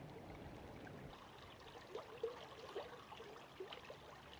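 Faint running water, trickling, with small irregular splashy blips from about two seconds in.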